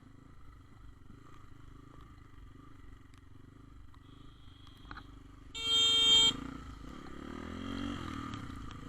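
A vehicle horn honks once, a single steady tone under a second long, about six seconds in, over the low, steady running of engines. After the honk, an engine's pitch rises and falls.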